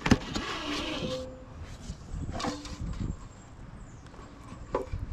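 Handling sounds as a caught flounder is laid on a fish measuring board in a kayak: a sharp knock at the start, then scattered clicks, knocks, rustling and short rubbing squeaks.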